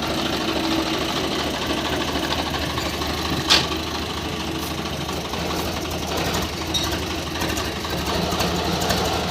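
Swaraj 855 FE tractor's three-cylinder diesel engine running steadily, with one short sharp knock about three and a half seconds in.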